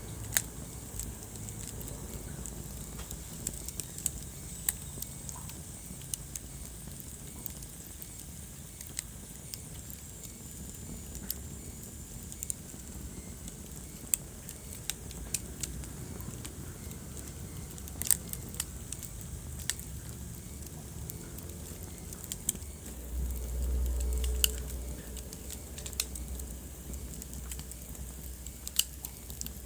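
Wood fire burning in a fireplace: irregular sharp crackles and pops over a low, steady rumble of flame, with the rumble swelling for about two seconds about three quarters of the way through.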